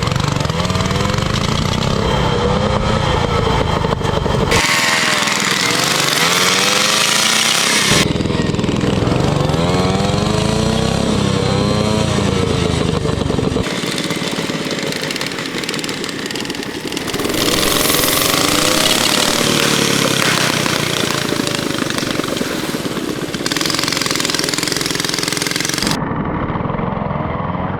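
Motorcycle engines revving up and down and labouring, in short clips joined by abrupt cuts every few seconds.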